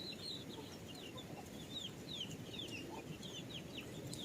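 Young chicks peeping: a string of short, high chirps that fall in pitch, several a second.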